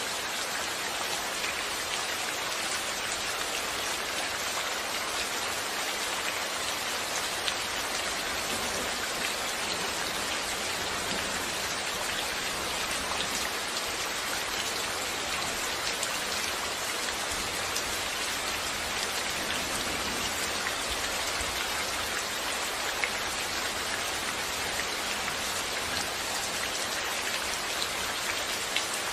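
Steady rain falling, an even hiss with scattered drop ticks on surfaces, with no thunder.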